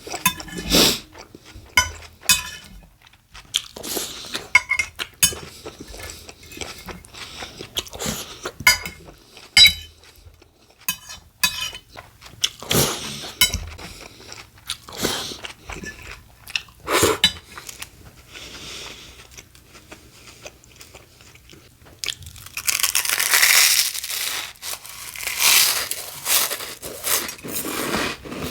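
Close-miked chewing and crunching of a bacon, lettuce and tomato sandwich on Italian bread, with many short wet mouth clicks and crunches. About two-thirds of the way in, it turns into a louder, denser stretch of noise lasting several seconds.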